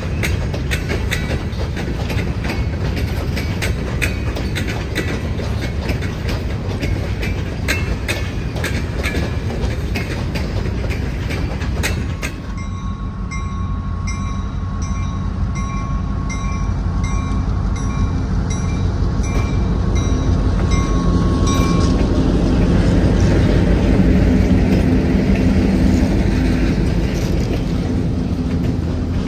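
Diesel-hauled freight train passing close by, wheels clicking over rail joints. About twelve seconds in the sound changes abruptly to a diesel locomotive engine drone that grows louder, with a faint high ringing repeating at an even beat for several seconds.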